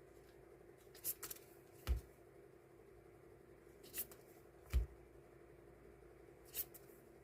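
Die-cut stickers and their packaging being handled and sorted on a desk: about six scattered light clicks and taps, two with a soft thump as pieces are set down, over a faint steady hum.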